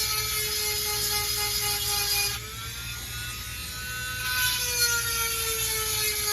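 Dremel rotary tool with a 7/32 round grinding stone whining steadily as it sharpens chainsaw chain cutters, with a gritty grinding hiss. The grinding drops out about two and a half seconds in while the motor spins free, its pitch rising slightly, then resumes with the pitch sagging under load.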